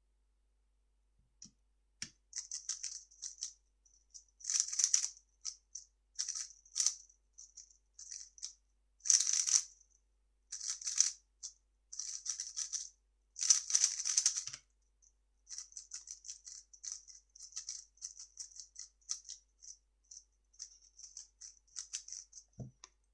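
3x3 speed cube being turned quickly by hand: rattling plastic clicks in rapid runs broken by short pauses, ending with a low knock near the end.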